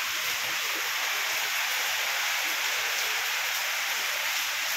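Steady rain pouring down, an even hiss with no breaks.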